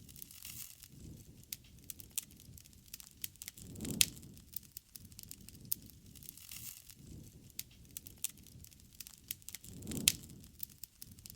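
Wood campfire crackling, with many small sharp snaps over a low rumble of flame, and two louder pops, about four and ten seconds in.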